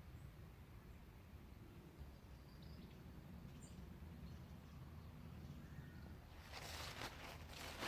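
Quiet woodland ambience with a low rumble and a few faint bird chirps, then footsteps with rustling starting about six and a half seconds in.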